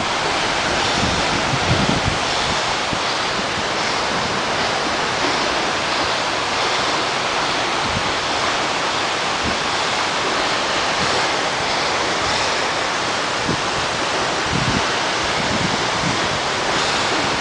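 Waterfall plunging from a height, a steady, even rush of falling water.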